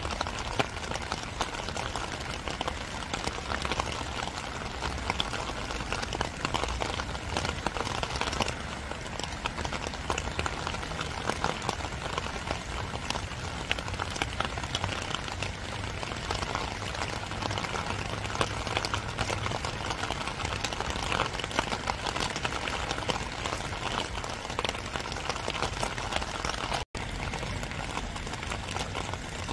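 Steady spring rain falling: an even hiss with many small drop strikes through it. The sound cuts out for an instant near the end.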